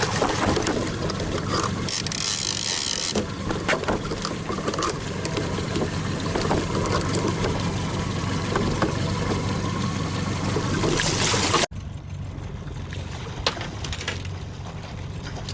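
Boat under way on the water: an outboard motor running steadily under rushing wind and water noise, with scattered knocks. About two-thirds of the way through it cuts abruptly to a quieter stretch of the same kind of sound.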